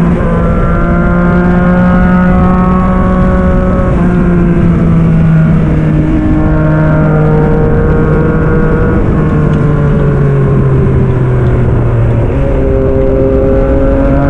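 2022 Yamaha MT-09 SP's three-cylinder engine with an aftermarket Black Widow exhaust, running under load on a ride. Its pitch drifts down through the middle and jumps back up about twelve seconds in, as the rider rolls off and gets back on the throttle or changes gear.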